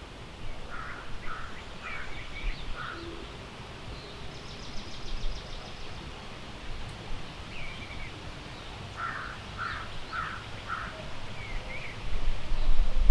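Woodland birds calling. A harsh call comes four times in a row early on and four times again later, with scattered higher chirps and a fast, high trill in between. About a second before the end, a low rumble of wind on the microphone comes in.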